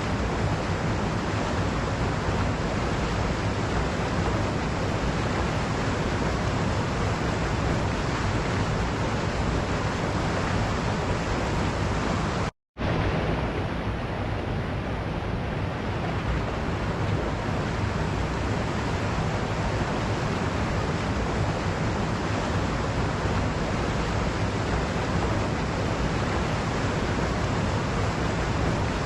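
Waterfall: a steady rush of falling water. The sound cuts out completely for a split second about halfway through, then resumes unchanged.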